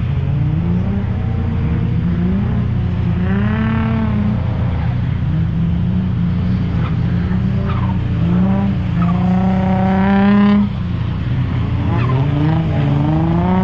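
Car engines revving up and down as they drift around a wet skid pan, over a steady low rumble. The loudest rev climbs from about eight seconds in and cuts off sharply about two and a half seconds later.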